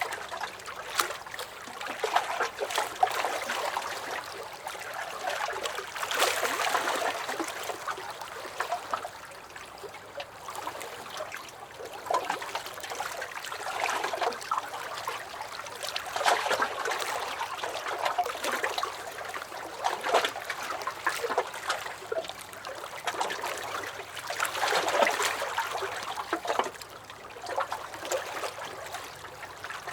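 Small lake waves lapping and splashing against a dock, with gentle swells of sloshing every few seconds and little drips and slaps between them.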